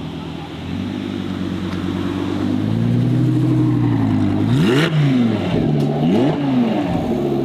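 A car's engine running and building up as the car moves off, with two sharp revs, each rising quickly and dropping back: one about halfway through and another about a second and a half later.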